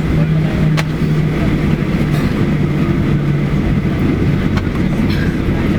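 Airliner cabin noise: a steady low rumble with a hum that keeps dropping out and returning, and a faint click about a second in.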